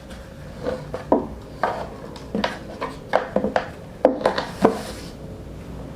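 Handling noise from unpacking: a string of light knocks and clatters, about a dozen, bunched between about one and five seconds in.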